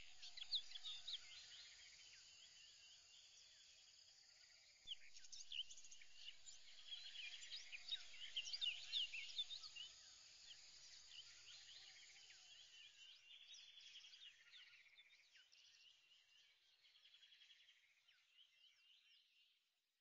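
Faint birdsong: many quick chirps and twitters that grow louder about five seconds in, then fade away toward the end.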